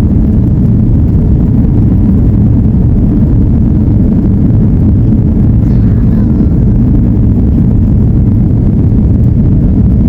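Steady, loud low rumble inside an airliner cabin: jet engines and airflow noise during the landing.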